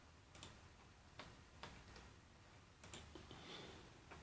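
Faint computer mouse clicks, about five spaced irregularly over a few seconds, against quiet room tone.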